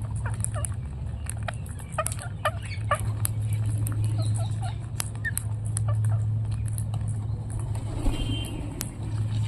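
Parrots giving many short, quick chirps and squawks, scattered irregularly, over a steady low hum.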